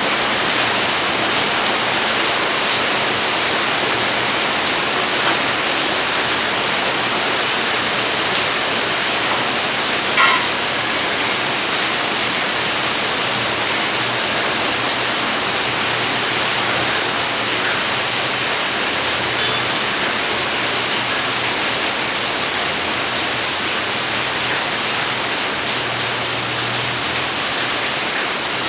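Heavy rain falling steadily, a dense even hiss, with one short high chirp about ten seconds in.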